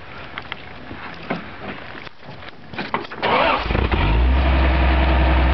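Toyota Land Cruiser engine starting up about three seconds in, then idling steadily.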